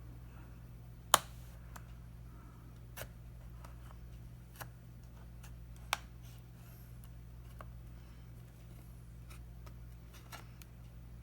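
Sharp plastic clicks as the retaining tabs of a Samsung Galaxy Tab 4 8.0's back cover snap free under a prying tool. There is one loud snap about a second in, then several fainter clicks spread over the following seconds, over a steady low hum.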